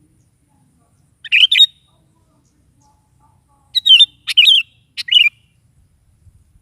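Sooty-headed bulbul (kutilang) singing: a short warbled phrase about a second in, then a longer phrase of three quick chirpy notes a few seconds later.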